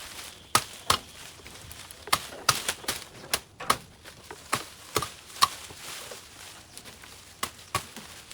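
Vines and brush being chopped by hand: about a dozen sharp, irregular strikes, bunched in the middle and spread apart near the end.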